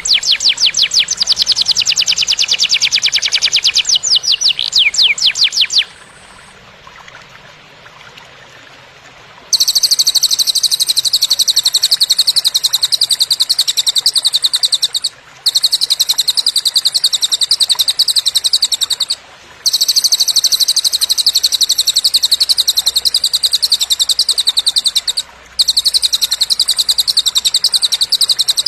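Songbird recording of a murai kasar used as masteran training song: very fast, rattling trills of high chirps. The song stops for a few seconds, leaving only a faint hiss, then returns in long high rapid trills broken by three short pauses.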